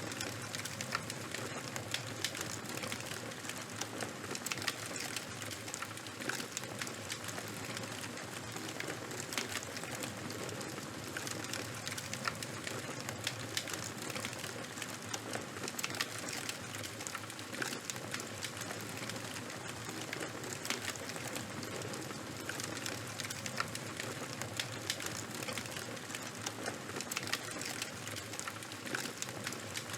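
Charcoal and bonfire burning, with a steady hiss and many small, sharp crackles and pops.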